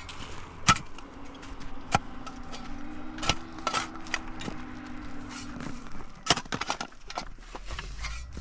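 Irregular sharp knocks and clacks, about a dozen, with a quick cluster near the end. A faint low hum runs under them from about two seconds in until about six seconds.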